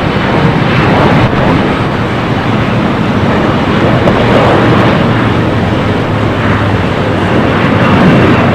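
Jet airliner engines, a loud steady rumble.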